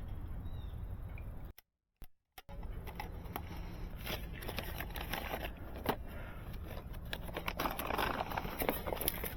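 Light clicks, taps and rustling of fiber and small splicing tools being handled over a steady low hum; the sound cuts out completely for about a second near the start.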